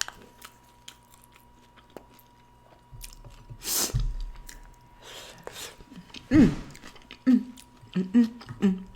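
A person chewing food close to the microphone, with small wet mouth clicks. About four seconds in comes a sharp breath, and in the last few seconds several short hummed 'mm' sounds.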